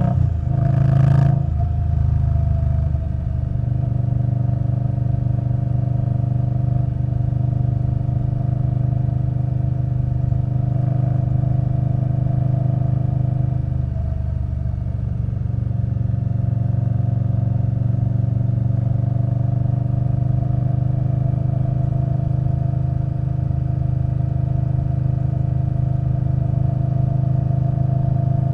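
2021 Indian Scout Bobber Twenty's V-twin engine running through a Vance & Hines Twin Slash exhaust, cruising at a steady note. The note changes briefly about a second in and dips for a moment around the middle.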